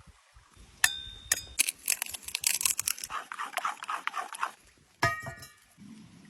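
Metal cookware clinking: a sharp clink with a ringing tone about a second in, a stretch of rapid clattering, and another ringing clink near the end.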